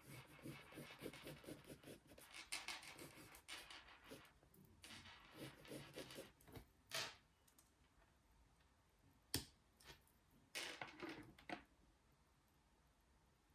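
Quiet close-up handling sounds: scratching and rustling for about the first seven seconds, a single sharp click about nine seconds in, then a short rustle near eleven seconds.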